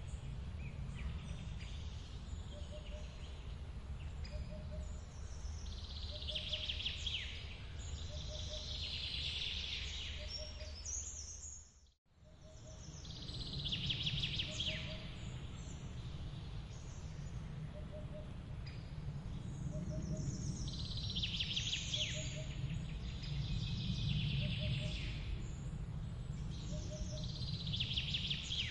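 Forest waterfall ambience: a steady rush of falling water under repeated bird calls, with a short low note repeating about once a second. About twelve seconds in, the whole sound fades out to near silence for a moment and then comes straight back in.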